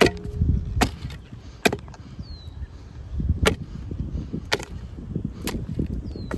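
Shovel blade chopping into a honeysuckle root: about six sharp strikes, roughly one a second, with a low scraping of soil and roots between them.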